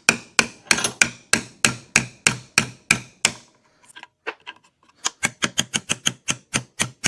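Hammer striking a wood chisel to chop out the waste between two saw cuts in a wooden block: a steady run of sharp strikes about three a second, then a short lull with a few light taps about three and a half seconds in, then quicker strikes about four a second.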